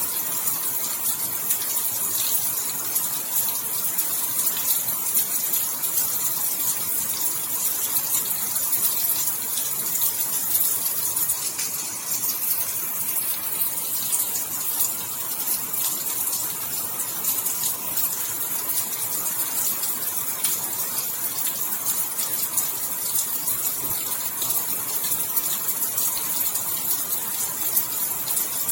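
Steady rain falling: an even hiss, brightest in the highs, full of fine drop ticks.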